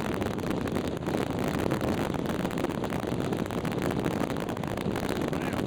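Steady rumbling noise of the research ship RRS Ernest Shackleton under way, mixed with wind buffeting the microphone.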